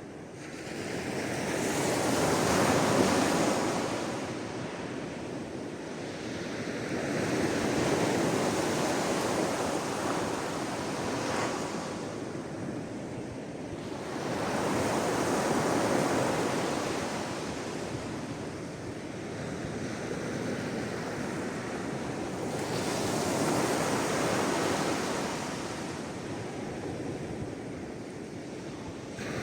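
Sea waves washing onto a shore, each surge swelling and fading about every seven or eight seconds, four times.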